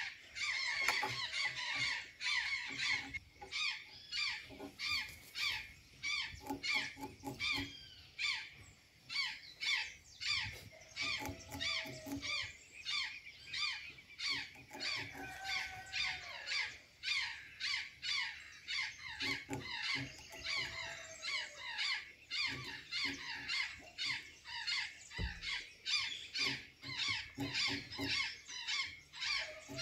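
Azure jays calling in a dense, unbroken run of short, squawking notes, about three or four a second, most of them falling in pitch, with a few longer whistled notes mixed in.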